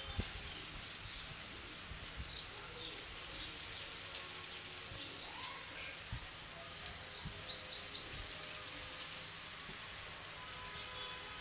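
Steady background hiss with a small bird's high chirps: a few single notes early on, then a quick run of about seven or eight falling chirps around seven seconds in.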